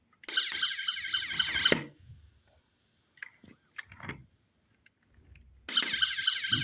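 Toy car's electronic siren warbling rapidly for about a second and a half, stopping, a few faint clicks, then starting up again near the end.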